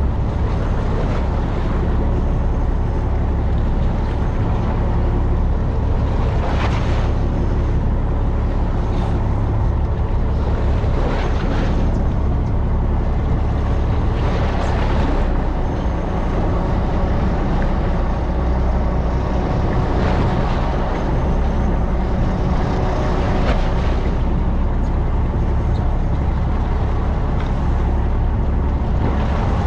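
Fishing boat's engine running steadily, a low rumble under the rush of water along the hull, with a few brief louder swishes.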